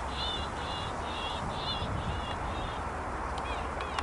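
A small bird chirping over and over, about two or three short chirps a second, over a steady rushing background; near the end a few different, falling chirps take over.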